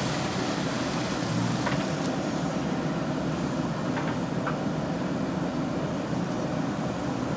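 Diesel engine of a JCB 3DX backhoe loader running steadily, with a few faint clicks.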